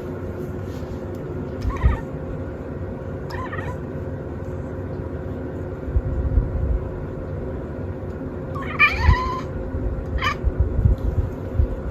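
Cat making short, squeaky chirping mews: four brief calls, the third, about nine seconds in, longer and louder than the rest. A steady low hum runs underneath.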